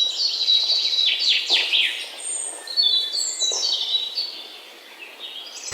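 Birds chirping and calling: a run of high chirps and short downward-sweeping calls that thins out briefly near the end.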